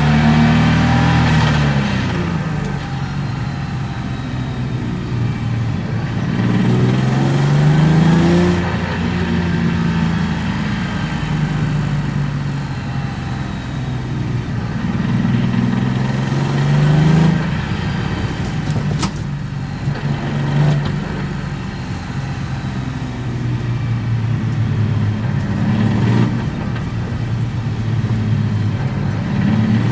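BMW E36 325i's M50B25 2.5-litre straight-six with aftermarket headers and exhaust, heard from inside the car, accelerating through the revs several times, its pitch climbing and then falling away as the driver shifts or lifts. A sharp click sounds once a little past the middle.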